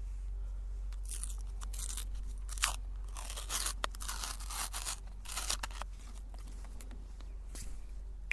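Meat grinder crushing crunchy wafer ice cream cones: a dense run of crackling crunches from about a second in until about six seconds, then only a few scattered small cracks.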